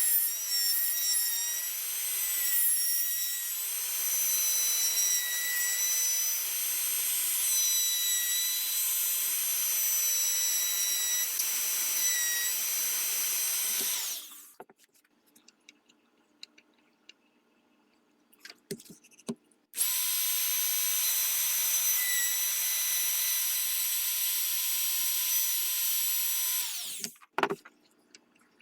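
Electric wood router running with a steady high whine, routing the trigger guard inlet in a walnut rifle stock. About halfway through it is switched off and winds down. A few seconds later it starts again, then is switched off and winds down near the end, followed by a short knock.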